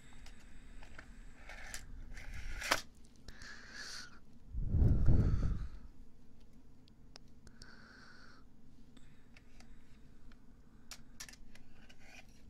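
Close-miked ASMR sounds: soft breaths near the microphone with scattered small clicks, and one loud low rush about five seconds in.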